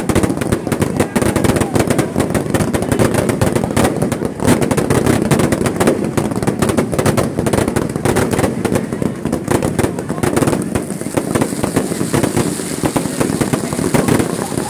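Fireworks display heard at very close range: a dense, unbroken barrage of rapid bangs and crackles from bursting shells and rising rockets over a continuous low rumble.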